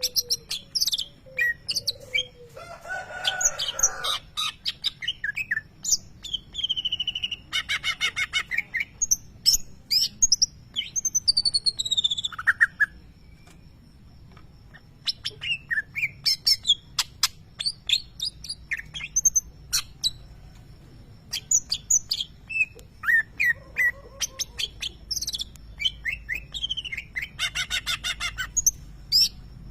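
Greater green leafbird (cucak ijo) singing a varied, loud song of sharp chirps, whistled glides and bursts of very fast trills, with a brief pause midway. This bird's song carries mimicked lovebird calls.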